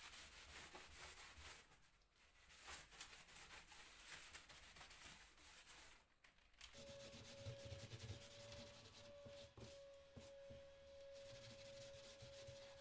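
Sanding on wood: a continuous scratchy rubbing that breaks off briefly about six seconds in, then resumes with a steady mid-pitched tone running under it before cutting off suddenly.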